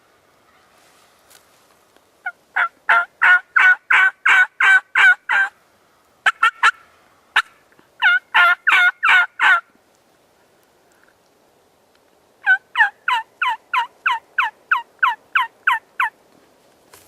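Turkey yelping: three runs of rapid yelps, about four notes a second, each note sliding down in pitch, with short pauses between the runs.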